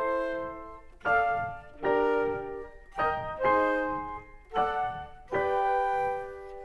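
Piano music: chords struck about once a second, each ringing and fading before the next.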